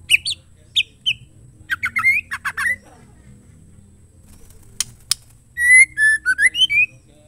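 Female white-rumped shama calling: a few short whistled notes, then a quick run of falling chattery notes, two sharp clicks, and a louder phrase of gliding whistles near the end.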